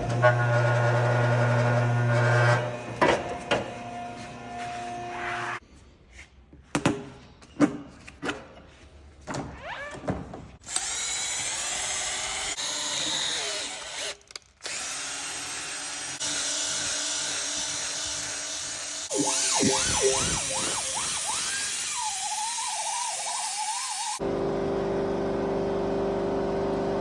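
Tire-repair work sounds in several short cuts: a power tool running in stretches of whirring, with knocks and clicks of hand tools in between, and a steady machine hum at the start and near the end.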